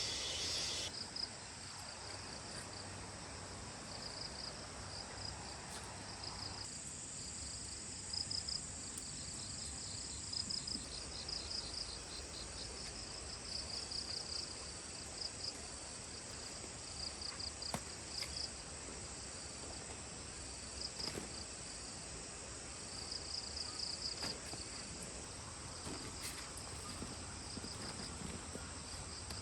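Insects chirping in rapid pulsed trains that come and go every second or two, over a steady high-pitched buzz.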